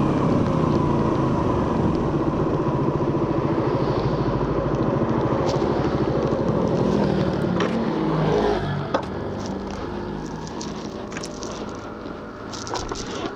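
Suzuki GSX-R150's single-cylinder 150 cc engine running through its stock exhaust at a steady pace, then dropping in revs and loudness about eight seconds in. It runs on more quietly after that, with a sharp click and a few light ticks.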